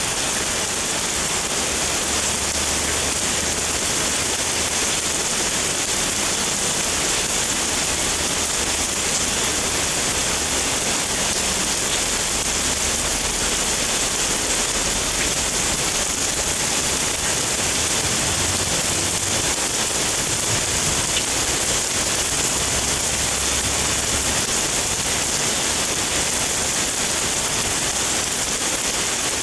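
Heavy downpour falling on a wet wooden deck and foliage: a dense, steady hiss of rain with splashing, unchanging throughout.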